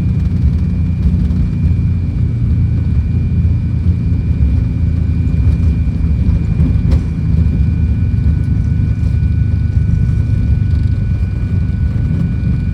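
Fokker 100 cockpit during the landing roll, with reverse thrust selected: a loud, steady low rumble from the Rolls-Royce Tay turbofans and the wheels on the runway, with a thin steady whine above it. A single sharp click comes about seven seconds in.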